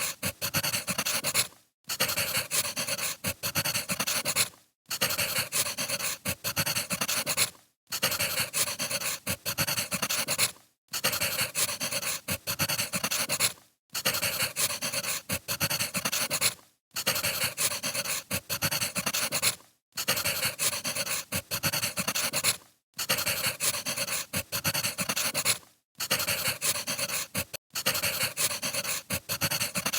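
Wood fire crackling with dense pops and hiss, cutting out briefly about every three seconds as the recording loops.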